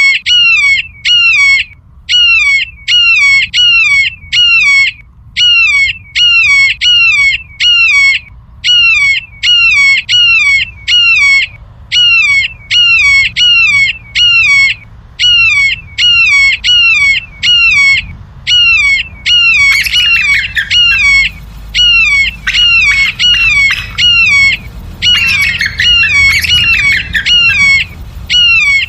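A bird squawking over and over in quick runs of three or four harsh notes that drop in pitch, about one run a second, nearly without pause. Denser calling joins in about two-thirds of the way through and again a little later.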